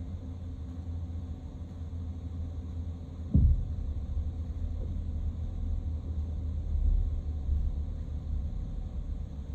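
Low, steady rumble of a vehicle driving, with one sharp thump about a third of the way in.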